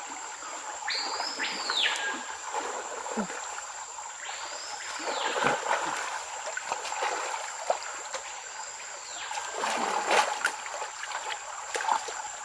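Three whistled calls, each rising then falling over about a second, a few seconds apart and fainter each time. Under them is a steady wash of water noise and a constant thin, high whine, with a few sharp splashy clicks near the end.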